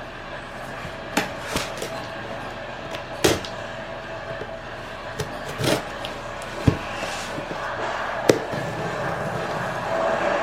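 Unboxing handling sounds: scattered sharp knocks and taps as packaged items are picked up and set down, over a steady faint background hum.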